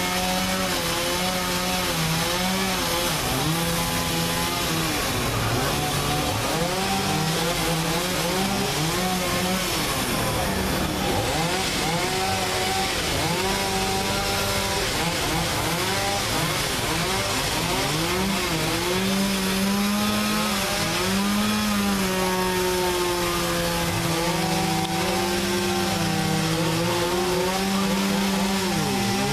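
Chainsaw engine running continuously, its pitch dropping and rising again and again as it bogs into wood and revs back up: cutting up storm-felled trees.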